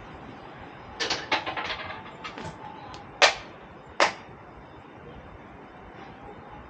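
A quick run of rattling clinks about a second in, then two sharp hand claps under a second apart: the clapping of a prayer at a Japanese shrine or temple.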